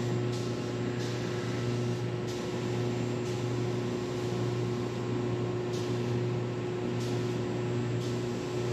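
Steady mechanical hum with a constant tone, and faint ticks every second or so.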